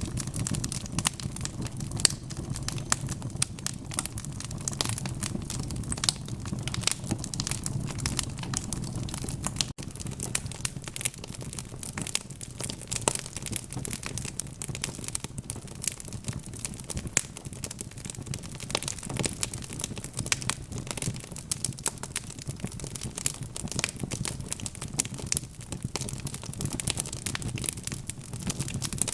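Wood fire in a fireplace crackling: a dense, irregular stream of sharp pops and snaps over a steady low rumble of the burning logs.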